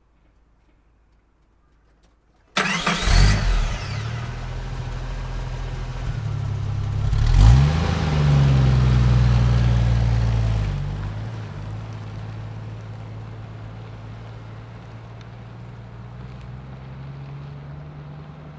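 A car engine starts suddenly about two and a half seconds in and is revved. It revs again harder a few seconds later, holds steady, then fades gradually as the car drives off.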